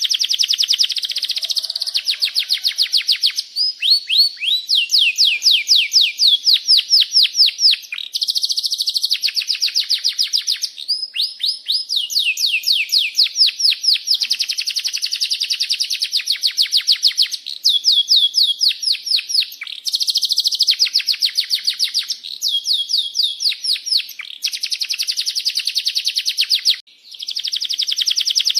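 Domestic canary singing a long song of rapid rolling trills: runs of quick, repeated falling chirps, phrase after phrase with only brief breaks.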